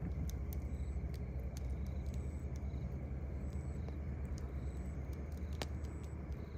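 Campfire crackling with scattered sharp pops, one stronger pop near the end, while crickets chirp in short high repeated notes over a steady low rumble.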